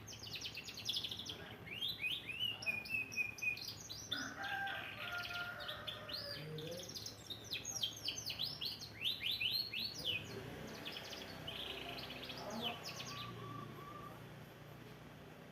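Domestic canary singing in bursts of rapid, steeply falling notes and trills, with lower held whistles in between. It is tuning up its song ("nata suara") rather than singing full song. The song thins out near the end.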